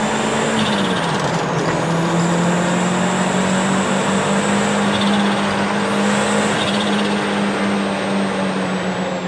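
EP91 Toyota Starlet Glanza V's turbocharged 1.3-litre four-cylinder running at a steady speed, over a steady rushing noise. Its note drops in pitch about a second in, then holds.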